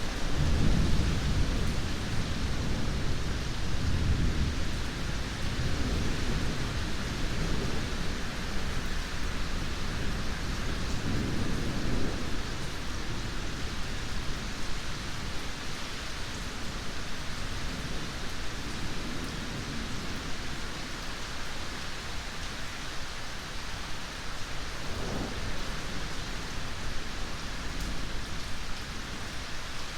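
Rain falling steadily with rolling thunder: low rumbles come in waves through the first dozen seconds, then fade to fainter rumbles later on.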